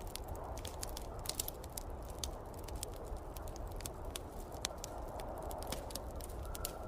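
Wood fire crackling in a fireplace, with irregular sharp pops and snaps several times a second, over a steady low rush of snowstorm wind.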